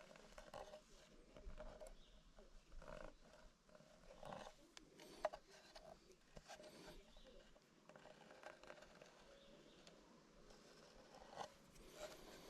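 Near silence with faint, scattered light taps and rubbing, as from hand work on wooden beehive parts.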